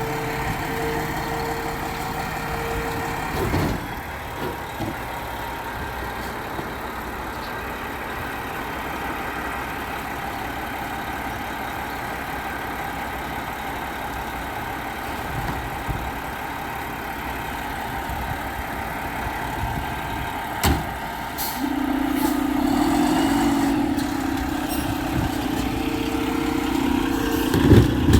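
Garbage truck engine running steadily, with a few sharp knocks. About three quarters of the way through a loud steady whine sets in over the engine and holds.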